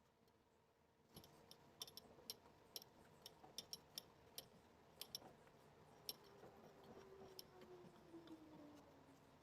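Faint irregular clicks and taps, with a low hum that slowly falls in pitch over the last few seconds, like a small motor winding down.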